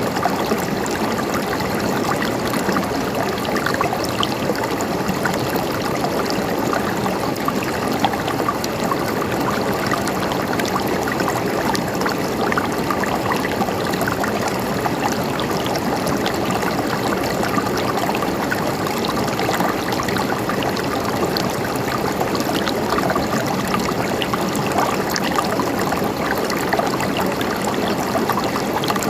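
River water flowing and gurgling over stones, a steady, even rush of babbling stream water.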